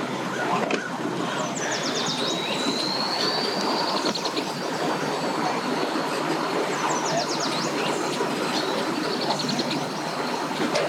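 Steady outdoor background rumble with small birds chirping: quick high trills about two seconds in, around seven seconds and near the end.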